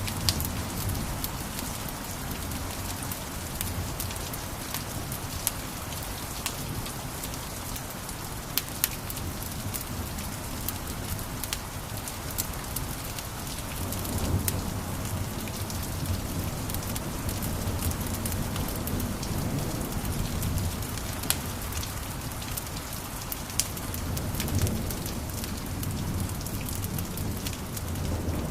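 Wood fire crackling, with frequent sharp pops and snaps over a steady hiss and a low rumble of burning that swells twice, about halfway through and again near the end.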